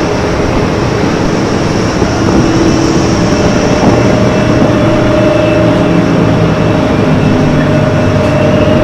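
A heavy vehicle running loudly with a steady, noisy rumble, and a steady droning tone that comes in about halfway.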